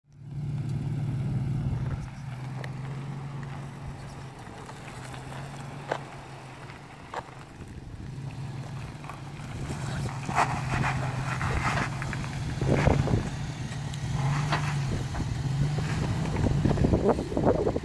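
Lifted Toyota Tacoma's engine running steadily at low revs while crawling off-road. Intermittent sharp clicks and crunching sounds grow busier in the second half.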